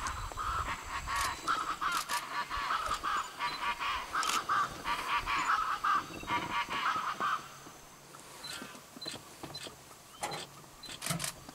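A bird calling in a fast series of short honking notes that runs for about seven seconds and then stops.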